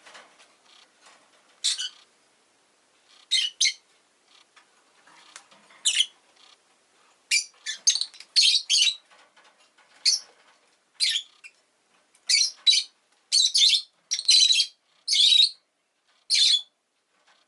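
Rosy-faced lovebird giving short, sharp, high-pitched chirps, some single and some in quick runs of two or three, coming more often in the second half.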